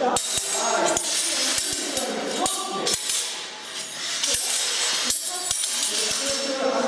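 Steel training swords clashing and clattering over and over, with short metallic ringing and jangling, as several pairs drill at once; voices are mixed in underneath.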